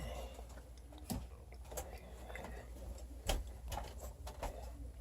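Light knocks and clicks of sheet-metal ductwork being handled and set in place, about half a dozen scattered strikes over a low steady hum.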